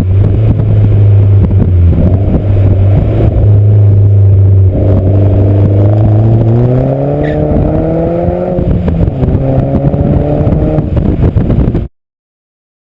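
Hyundai Genesis Coupe 2.0T's turbocharged four-cylinder through an Exceladyne cat-back exhaust: a steady drone, then the revs climb for a couple of seconds and fall back before the sound cuts off suddenly near the end.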